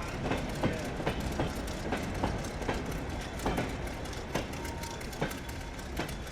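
Train running past, its wheels clicking over the rail joints with a steady rumble underneath, the sound slowly fading.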